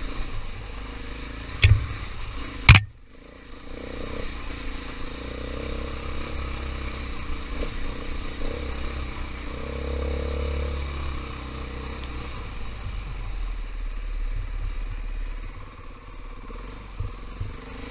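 KTM 500 EXC's single-cylinder four-stroke engine running on a dirt trail ride, its revs rising and falling. Two sharp knocks sound about two and three seconds in, the second the loudest.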